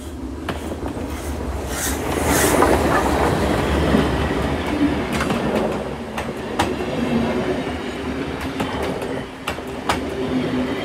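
Running noise of a moving passenger train heard from inside: a steady low rumble that grows louder from about two seconds in while crossing the passage between carriages, with scattered sharp clicks and knocks.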